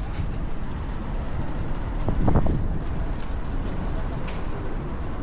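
Strong wind buffeting the microphone with a steady low rumble over street ambience, and a brief voice of a passer-by about two seconds in.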